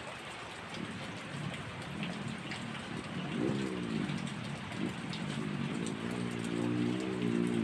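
Heavy rain falling steadily. From about three seconds in, a pitched, wavering sound rises over it and grows louder toward the end.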